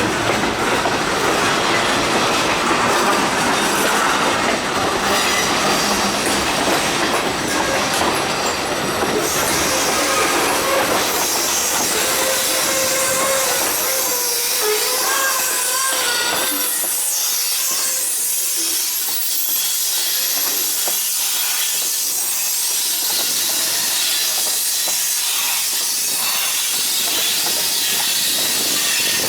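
A freight train rolling past, its cars' wheels squealing for a few seconds about halfway through. After that the low rumble falls away, leaving a steady high hiss of the train.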